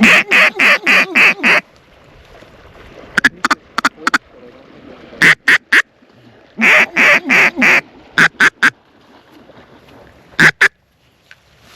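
A hunter's duck call blown close by, sounding loud runs of quacks: a run of about six at the start, then shorter runs of two to five with pauses between, to work ducks that are circling the blind.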